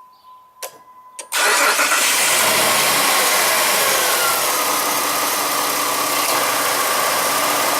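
A few clicks and a brief steady beep, then the 2006 Jeep Liberty's V6 engine fires on a cold start about a second and a half in and settles into a steady idle.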